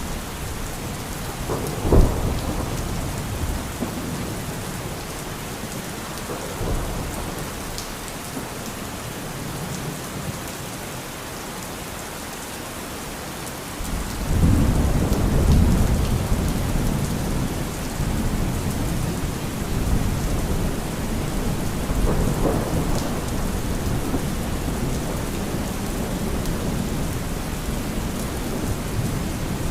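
Steady heavy rain with thunder: a sharp crack about two seconds in, then a long low rumble that swells up about halfway through and keeps rolling.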